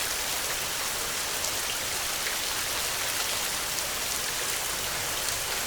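Heavy rain falling steadily: an even hiss with many small, sharp drop ticks.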